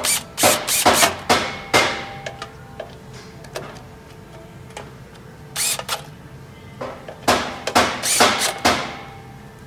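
Steel parts of a HWAM/Wiking wood-burning stove clanking and scraping as the stove is reassembled. The metallic knocks ring briefly and come in clusters: several at the start, a short burst midway, and a longer run in the last third.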